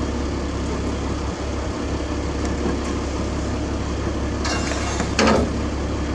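Heavy diesel engine idling with a steady low hum. About four and a half seconds in there is a brief hiss, then a short, louder burst just after five seconds.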